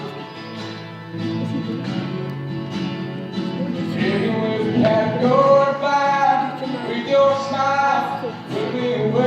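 Young male voice singing a country ballad over acoustic guitar; the guitar carries the first few seconds and the voice comes back in about four seconds in, holding long sung notes.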